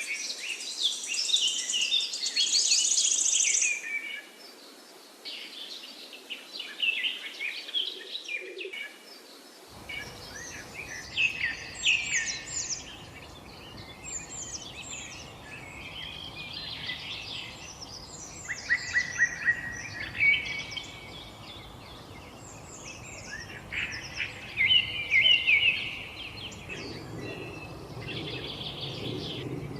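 Small songbirds chirping and singing in quick, overlapping calls and short falling notes. About ten seconds in, a low steady background noise comes in beneath them.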